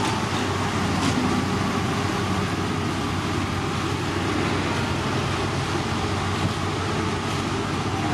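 Diesel engine of heavy road-construction machinery running steadily, a constant low hum under a dense rumble.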